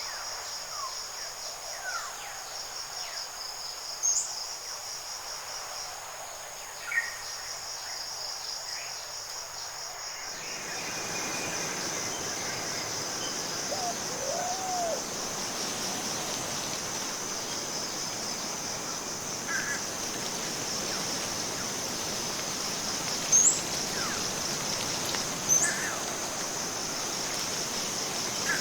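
Forest ambience: a steady, high, pulsing insect chorus, with scattered short bird chirps and whistles. About ten seconds in, the background noise grows fuller.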